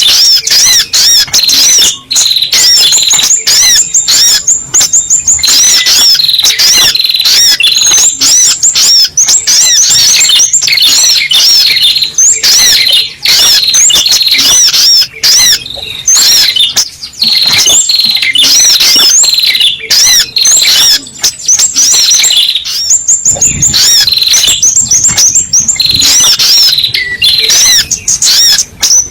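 Sogok ontong (spiderhunter) lure call: fast, loud, high chirps repeated almost without pause, the kind of recording played to draw the birds in. There is a short break about two-thirds of the way through.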